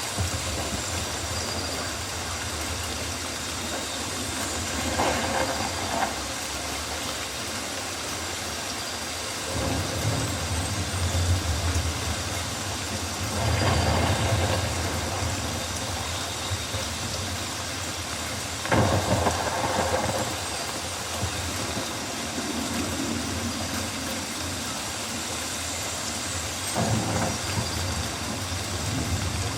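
Steady rain hiss of a rainforest ambience, with low rumbles swelling a few times, loudest about halfway through and again more sharply a little later.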